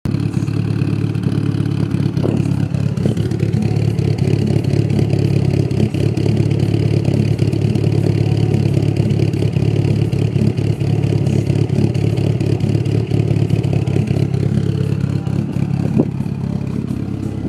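Mitsubishi Lancer Evolution's engine running steadily at a low, even speed through a new aftermarket exhaust, fitted with stage 5 camshafts, giving a deep, loud exhaust note.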